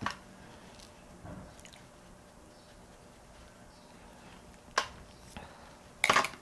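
A few short clicks and taps from handling makeup products and containers, over quiet room tone; the loudest cluster comes near the end.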